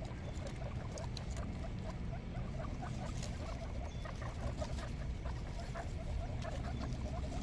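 Newborn guinea pigs making a rapid run of soft, short squeaks and chirps while they nibble fresh parsley, with small scattered clicks of chewing and scrabbling.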